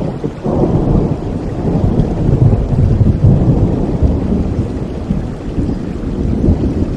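A long peal of thunder rumbling over steady rain. It swells about half a second in, is loudest at around two to three seconds, then slowly eases off.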